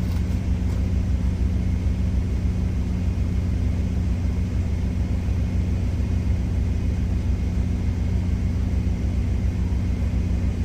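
Semi truck's diesel engine idling: a steady low drone heard inside the cab.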